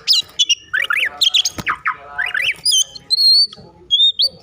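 Oriental magpie-robin singing a rapid, varied song of loud whistles with quick up-and-down pitch sweeps in short phrases. This is the agitated, 'over-emotional' kacer song used to provoke other magpie-robins into singing.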